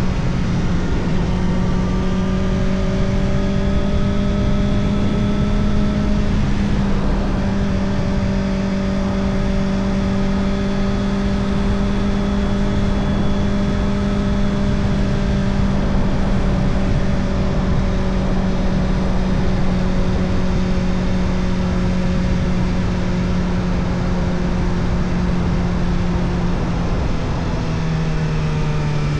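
Kawasaki Ninja ZX-4RR's 399 cc inline-four running through an Arrow Indy Race Evo titanium exhaust with the dB killer fitted. It holds a steady cruising pitch that sags slowly, then falls away near the end as the bike slows. Wind and road rush run underneath.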